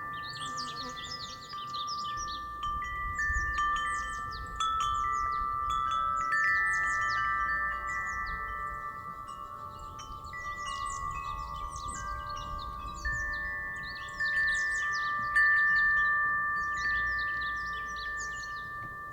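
Wind chime ringing in the breeze: several tones struck again and again, each left to ring on and overlapping the others, over a low rumble of wind.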